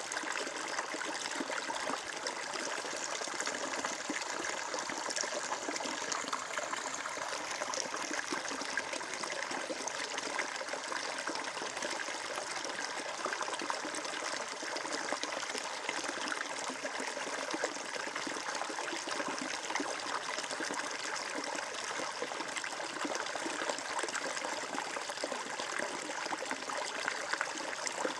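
Water flowing and trickling steadily over rocks in a stream, an even splashing babble.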